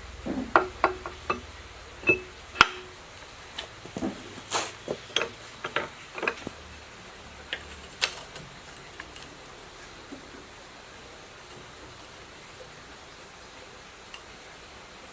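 A series of irregular sharp knocks and clinks of hard objects for about the first eight seconds, then only faint room noise with an odd tick.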